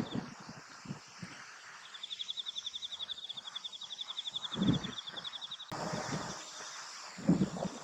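An insect singing a rapid pulsed trill at one steady high pitch, with a sudden change partway through, and two dull low thumps, one about halfway and one near the end.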